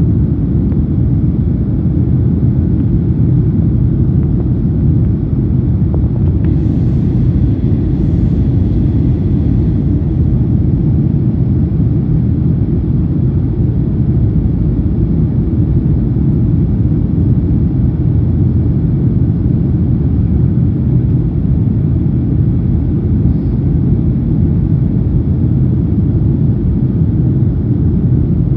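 Steady cabin rumble inside a Boeing 737-800 from a window seat: the engines and airflow running without change, low and even.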